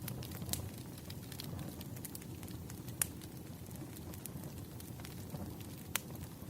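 Campfire crackling: a steady low rumble of burning wood with scattered small snaps and a few louder pops.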